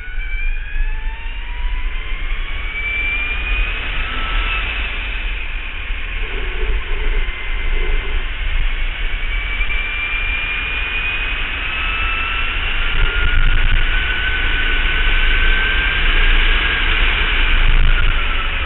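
Electric racing motorcycle's motor whine, a high whine that climbs slowly in pitch as the bike accelerates, over a steady rush of wind. The pitch drops back about five seconds in, then climbs again through most of the rest.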